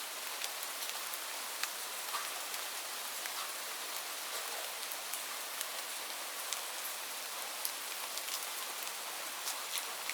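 Steady rainfall: an even hiss of rain with many individual drops ticking sharply at irregular moments.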